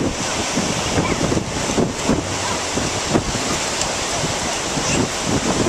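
Ocean surf washing on the shore under strong wind, with wind buffeting the microphone in uneven gusts.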